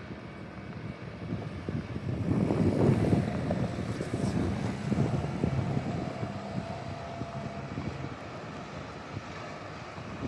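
A car passing on a snowy city street, its noise swelling about two seconds in and fading away over the following several seconds.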